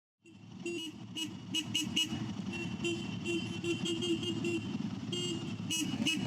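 A road vehicle's engine running, with repeated short horn toots over it.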